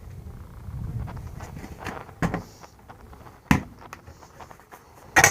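A low rumble, then three sharp knocks or clunks, the last the loudest near the end, typical of handling fittings or stepping inside a small camper.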